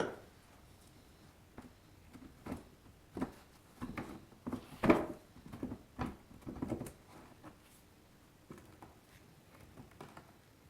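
Irregular light knocks, clicks and clatters of hard parts and tools being handled, with a sharp knock at the start and the loudest one about five seconds in.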